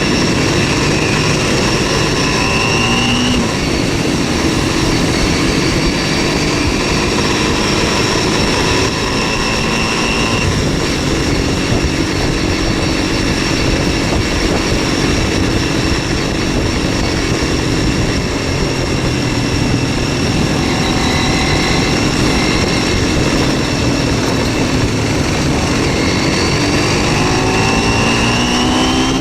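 MZ 125 SX motorcycle's single-cylinder four-stroke engine running under way, heard from on board. The engine note holds steady for long stretches and climbs in pitch as the bike accelerates, a couple of seconds in and again near the end.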